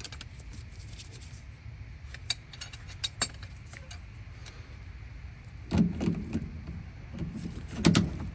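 Scattered clicks and knocks of hands working the washer's drain pump and its clips back into place: a few sharp clicks, then louder clusters of knocking about six and eight seconds in, over a low steady hum.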